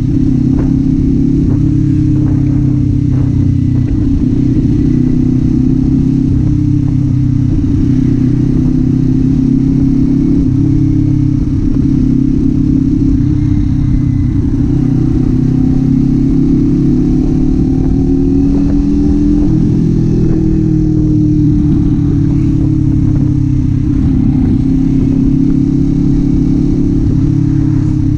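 Kawasaki Z400's parallel-twin engine running under way, its pitch rising and falling gently as the throttle changes.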